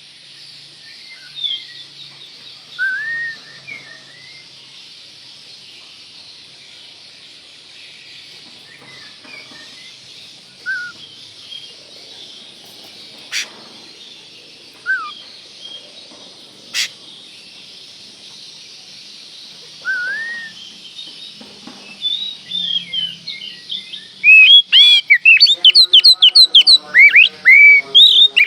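Oriental magpie-robin (kacer) singing: scattered short whistled notes over a steady hiss, then near the end a loud, rapid run of sweeping, repeated notes, the bird in full song (gacor).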